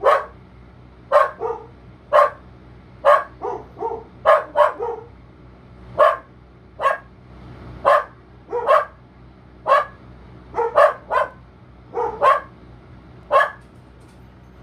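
Mini Goldendoodle puppy barking over and over: about twenty short, sharp barks at an uneven pace, some in quick pairs.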